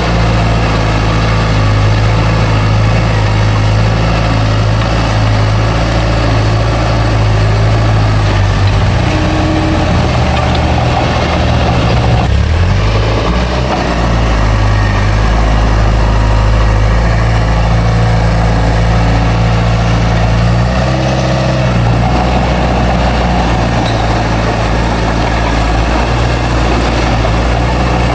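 Heavy earthmoving machine's diesel engine running steadily under work, a deep low drone. Its pitch shifts about a third of the way in and again past two-thirds as the load changes.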